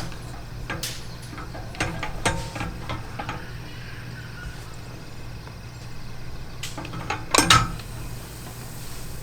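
Dishes and utensils being handled: scattered sharp clinks and knocks, the loudest cluster near the end, over a steady low hum.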